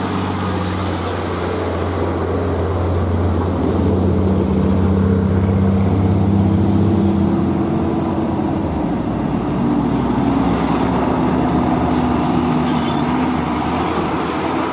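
Heavy diesel truck engine running on the road with tyre and road noise; the engine note shifts about halfway through.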